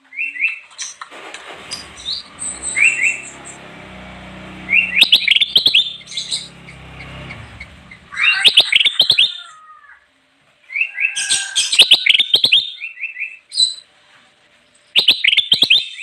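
Kutilang emas bulbul singing in repeated bursts of quick rising chirps and whistles, with sharp clicks mixed in. A low rumble runs underneath from about a second and a half to eight seconds in.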